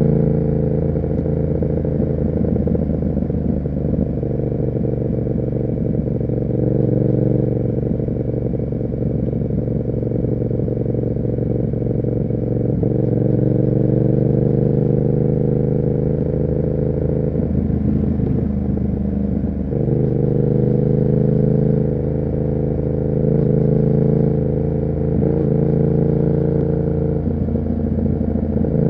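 Yamaha MT-07's parallel-twin engine running through an SC Project aftermarket exhaust while riding, holding a fairly steady note with a few brief breaks and shifts in pitch where the revs change.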